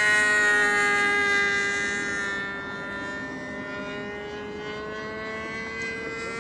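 Nitro glow engine (Super Tiger) of a radio-controlled model airplane in flight, a high-pitched buzzing whine. It is loudest for the first couple of seconds, then fades as the pitch dips slightly and comes back up.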